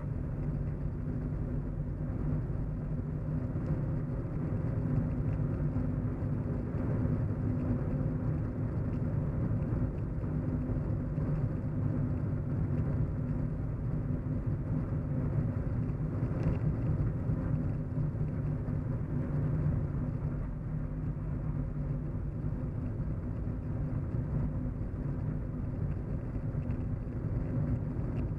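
Steady low hum and road noise of a car driving, as heard from inside the cabin.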